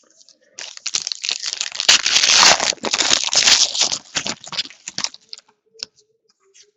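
A trading-card pack's plastic wrapper being torn open and crinkled in the hands: a dense crinkling from about half a second in to about five seconds, followed by a few light ticks as the cards are handled.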